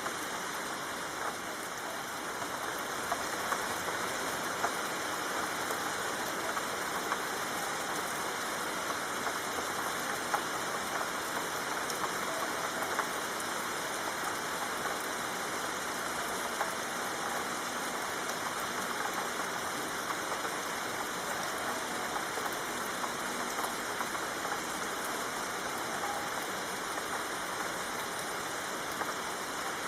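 Steady soft rain falling: an even hiss dotted with many small drop ticks.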